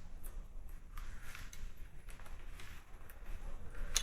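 Faint handling noises as accessories are unclipped from a bicycle: a few small clicks and scrapes over a low steady background.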